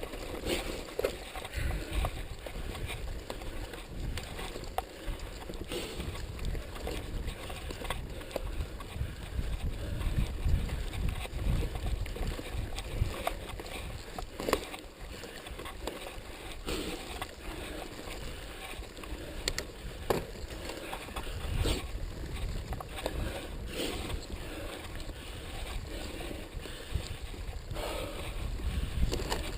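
Mountain bike ridden over a rough dirt trail, with wind rumbling on the microphone and scattered clicks and knocks as the bike rattles over bumps.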